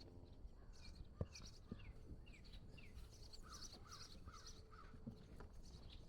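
Faint birds calling: repeated short high chirps and quick falling notes, with a run of about five calls in the middle. A single sharp click about a second in is the loudest moment.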